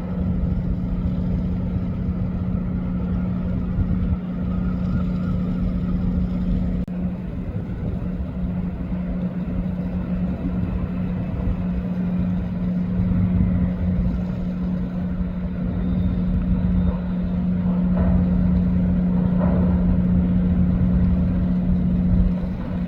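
Steady hum from a noisy bike being ridden, holding one even pitch throughout, over a rumble of wind on the microphone.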